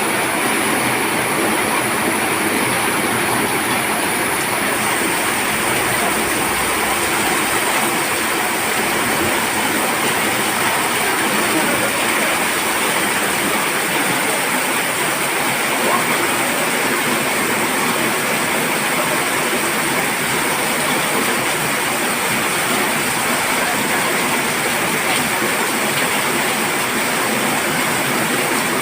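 Heavy rain falling, a steady loud hiss of water that does not let up.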